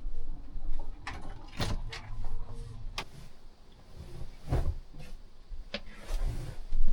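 Irregular knocks, clicks and low thumps, about six spread unevenly, from someone moving about and handling things inside a travel trailer, likely while starting to make tea.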